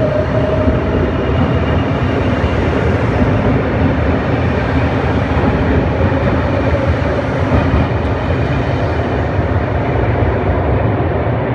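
Trenord TSR double-deck electric commuter train running out of an underground station, a loud steady rumble with a faint whine. The high hiss thins out near the end as the last car passes and the train draws away into the tunnel.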